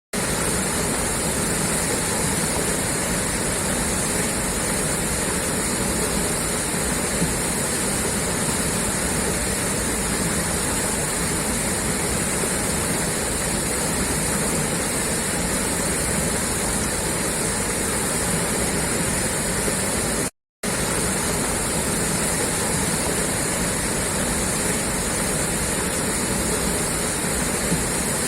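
Water gushing steadily out of a pipeline outlet, a dense, unbroken rush of falling water. The sound cuts out completely for a split second about twenty seconds in.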